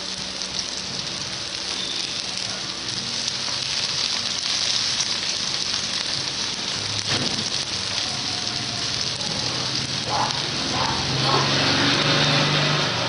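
Sliced onions and garlic sizzling steadily in hot oil in an aluminium wok, with a metal spatula stirring through them and a single sharp knock against the pan about seven seconds in.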